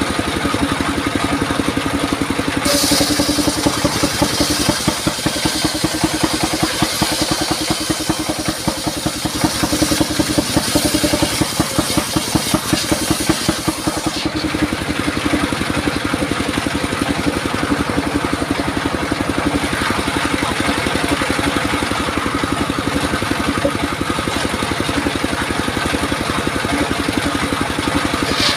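Engine-driven circular saw running steadily with a rapid engine beat. Its blade rips through durian wood from about three seconds in, adding a loud high hiss that cuts off suddenly about halfway through.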